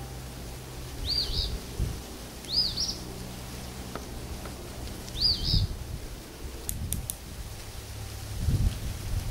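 A songbird calling three times, each a short whistled note that rises and falls, the first two about a second and a half apart and the third a few seconds later. Low thumps on the microphone come in between.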